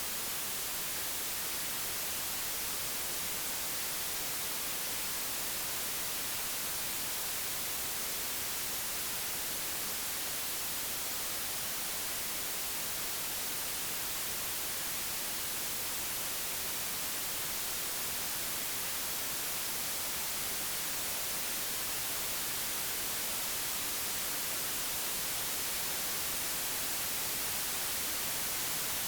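Steady, unchanging white noise, a hiss with its energy strongest in the high frequencies, generated digitally rather than recorded.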